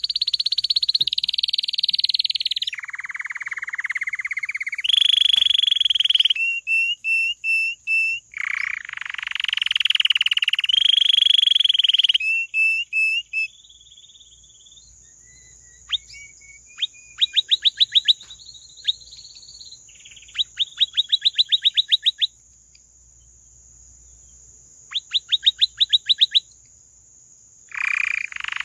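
Domestic canary singing a long song of rolls and trills: loud sustained buzzy rolls and runs of quick repeated notes in the first half, then quieter bursts of rapid clicking notes with pauses between them, and a loud roll again at the end.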